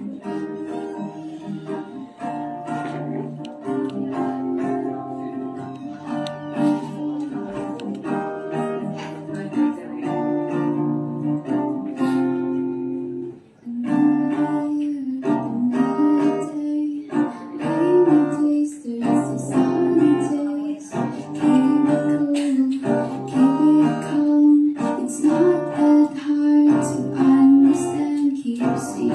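Acoustic guitar playing a song intro, picked and strummed; about halfway through, after a brief pause, a solo voice comes in singing over the guitar.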